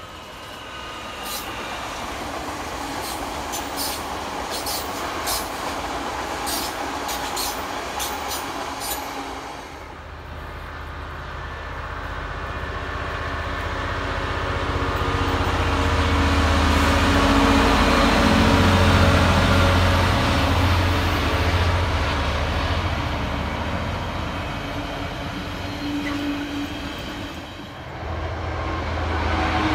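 An electric multiple unit passes at a distance, with a run of sharp clicks from its wheels. About ten seconds in, a Class 66 diesel freight locomotive passes, its two-stroke EMD diesel engine growing loud, loudest past the middle, then fading. Near the end another diesel locomotive's engine rumble starts.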